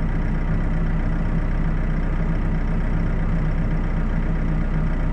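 Heavy diesel engine idling steadily, a constant low hum with no revving.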